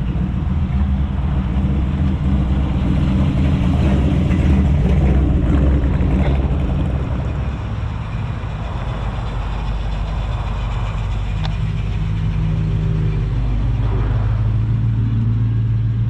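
A car engine running at low revs, a deep steady note that grows louder for a few seconds, dips about halfway through, then settles into a steadier low note near the end.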